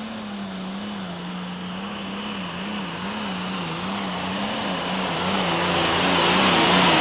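Super stock pulling tractor's turbocharged engine running hard on its pull, its note wavering up and down and growing steadily louder.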